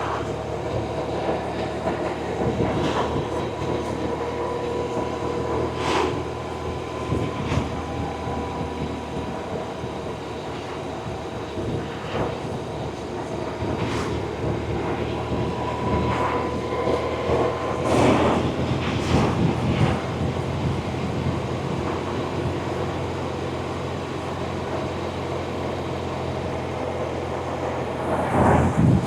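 BMW R1100RT motorcycle's boxer twin running steadily under way, with wind and road noise, and a few brief rushes of noise.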